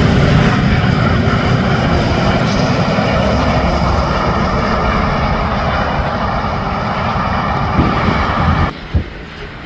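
A heavy truck passing close on an interstate highway: a steady engine rumble and tyre roar that cut off suddenly about a second before the end.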